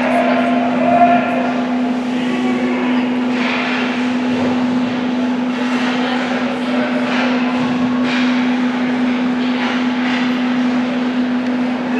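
Ice hockey rink ambience: a steady low hum throughout, with distant voices and occasional faint knocks from play.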